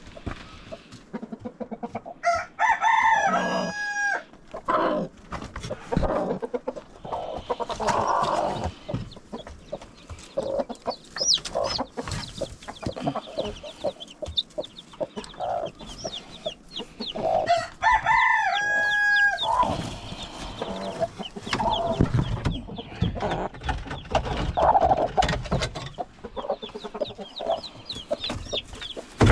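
A rooster crows twice, about fifteen seconds apart, over hens clucking, with scattered knocks and rustling.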